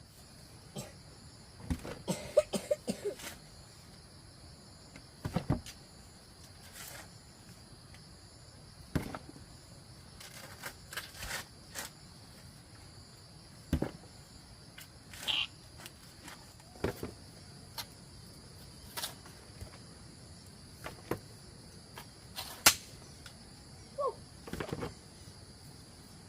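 Crickets or other insects chirring steadily and high, with sharp knocks and thuds at irregular intervals; the loudest cluster of knocks comes about two to three seconds in, and one sharp knock comes near the end.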